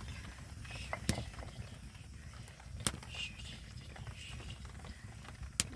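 Three sharp, short knocks, about a second, three seconds and five and a half seconds in, over a steady low rumble, with a few faint hissy sounds between them.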